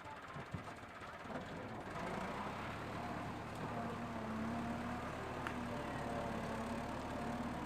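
A motor running steadily, with a steady low hum that comes in about two seconds in.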